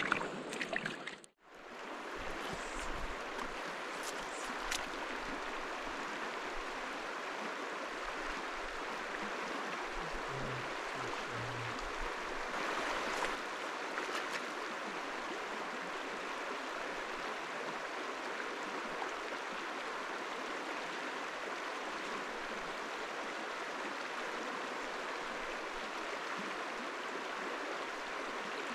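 Mountain river water rushing steadily over rocks, an even, unbroken rush of flowing water.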